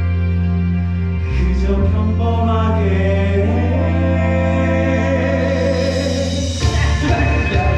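Musical theatre song ending: male voices hold a long closing note over sustained accompaniment. About six and a half seconds in, the music changes to a low, pulsing rumble.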